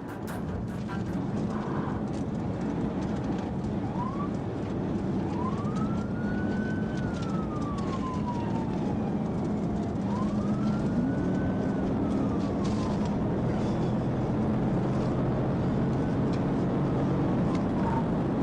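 Police car siren wailing in slow rising and falling sweeps, a few seconds per cycle, over the steady drone of the patrol car's engine and tyres.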